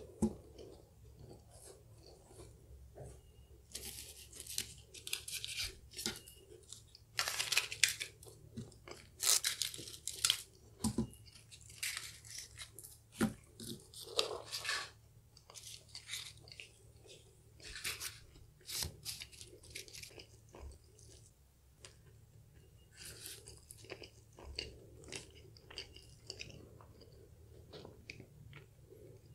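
Close-miked chewing and biting of Portuguese egg tarts with flaky pastry crusts, in irregular sharp crackly bursts.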